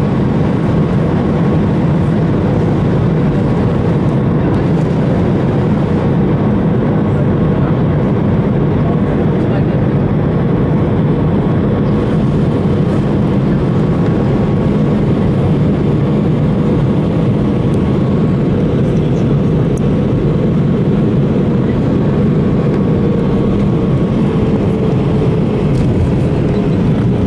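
Airbus A320 cabin noise in flight: a steady, loud rush of engine and airflow noise with a thin steady whine that drops slightly in pitch near the end.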